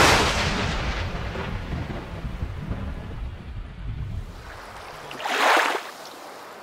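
Thunder: a sharp crack that rolls into a long low rumble and dies away over about four seconds, followed by a second, shorter burst of noise about five seconds in.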